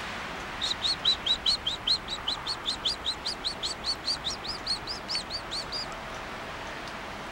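A bird singing a steady series of about two dozen short, high chirps, four or five a second, lasting about five seconds.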